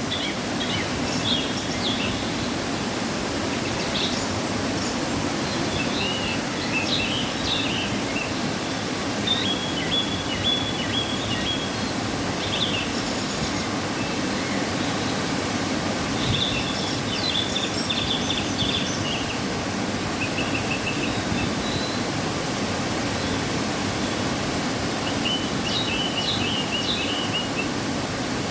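Waterfall rushing steadily, running full after rain. Birds chirp in short bursts several times over it.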